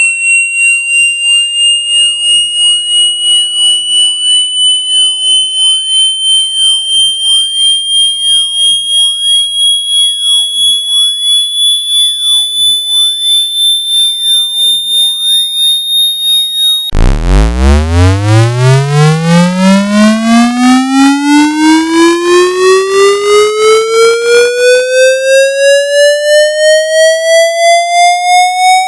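Synthesized water-ejection test tone: a pulsing electronic tone with overtones, gliding slowly upward at a high pitch. About two-thirds of the way in it cuts to a new sweep that starts very low and rises steadily to a mid pitch, still pulsing about twice a second.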